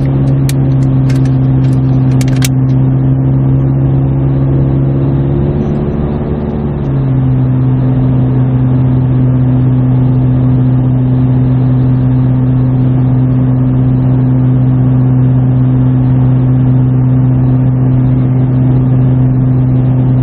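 Exhaust drone from a 2017 Subaru Forester's naturally aspirated 2.5-litre flat-four with a muffler delete, heard inside the cabin at a steady 70 mph freeway cruise. A loud, steady low hum with a second tone above it, which shifts slightly about six or seven seconds in and then holds steady.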